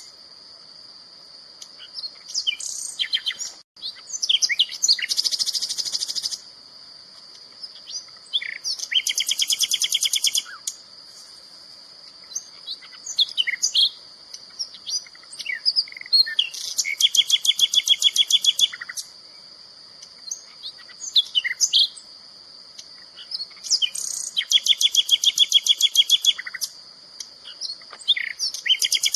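A songbird singing loud, rapid high trills that last one to two and a half seconds and come back every few seconds, with short chirps and whistled notes between them. A steady high-pitched whine runs underneath.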